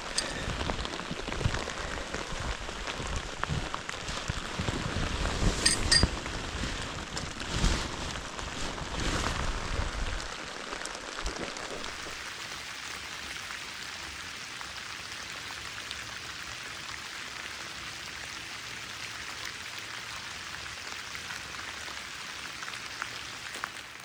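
Steady rain falling. During the first ten seconds there is also a low rumble and a few sharp knocks, which then stop and leave only the rain.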